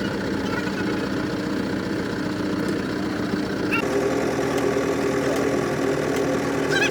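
An engine running steadily at idle, with an abrupt change in its sound about four seconds in.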